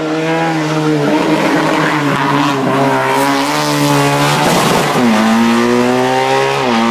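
Racing car engine at high revs, climbing and dipping in pitch under hard acceleration. The pitch drops sharply twice, about five seconds in and again near the end, as the car changes gear.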